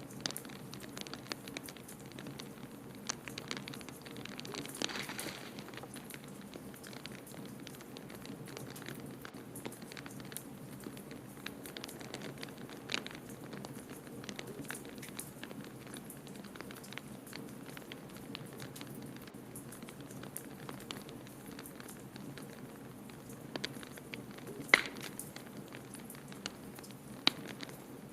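Wood fire crackling in a fireplace: a steady stream of small pops and snaps over a low, even rumble, with two sharper, louder pops near the end.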